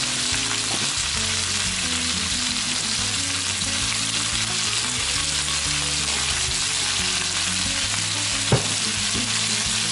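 Garlic chive flowers and shrimp sizzling steadily in a hot nonstick wok while oyster sauce is poured in. There is one sharp tap about eight and a half seconds in.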